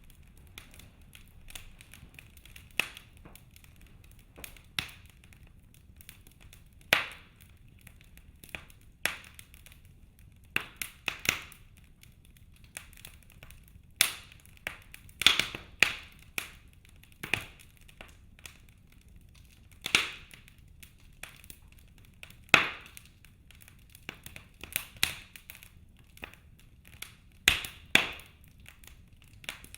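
Wood fire in a fireplace crackling: sharp, irregular pops and snaps from the burning logs, several loud ones a few seconds apart, over a faint low hiss of the flames.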